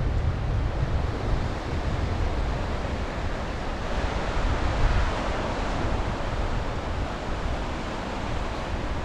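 Sea waves washing onto the shore, with one wave surging up about halfway through. Wind buffets the microphone with a low rumble, heaviest in the first second or so.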